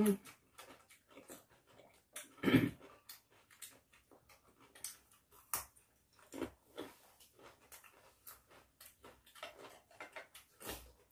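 People chewing and crunching pickled vegetables, with many small sharp crunches and clicks, and a short hum-like mouth sound about two and a half seconds in.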